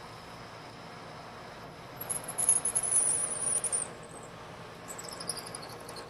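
A twist drill in a lathe tailstock squeaking high and pulsing as it cuts into the hole. The squeak starts about two seconds in and lasts nearly two seconds, then returns more weakly near the end. This squeaking is typically a sign that chips are binding in the drill's flutes and the pass has gone deep enough.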